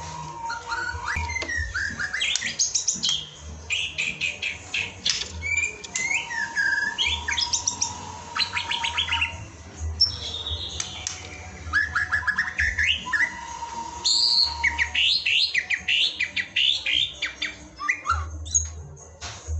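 Songbird singing a continuous, varied song of rapid trills, chirps and whistled glides: a masteran tutor recording of the kind played to train white-rumped shamas.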